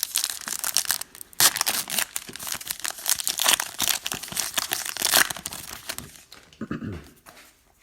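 Trading card pack wrappers being torn open and crinkled by hand, an irregular crackling that runs for about six seconds and then stops.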